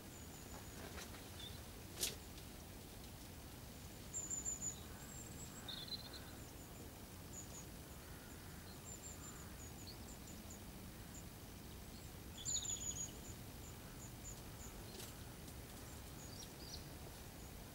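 Small birds chirping: quick high chirps in two short bursts, about four seconds in and again near twelve seconds, with scattered single chirps between, over a steady low background noise. A single sharp click about two seconds in.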